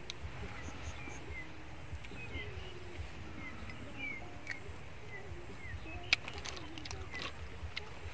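Small birds chirping over and over in short falling notes over a steady low rumble, with a few sharp clicks, the loudest about six seconds in.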